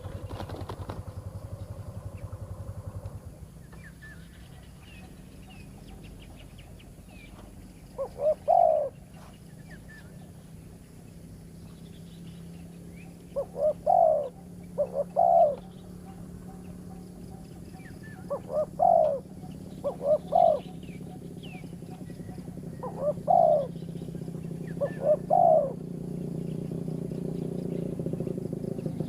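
Spotted doves (terkukur) cooing: a short multi-note coo phrase repeated about four times, several seconds apart. Under it runs a steady low hum that grows louder near the end.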